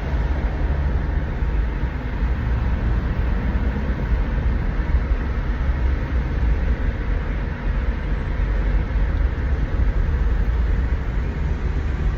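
Steady low rumble and road noise of a car driving, heard from inside the cabin.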